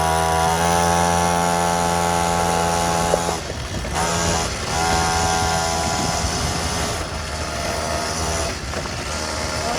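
Small 50cc quad bike engine running at a steady throttle, easing off about three seconds in, picking up again a second or so later and dropping back near the end.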